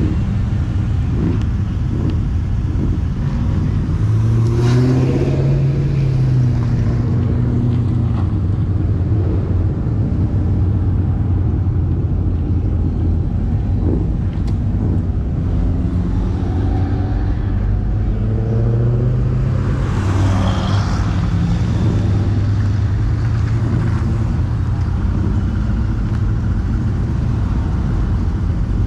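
Cars driving past one after another with engines running, steady throughout, with one louder car going by about five seconds in and another around twenty seconds in.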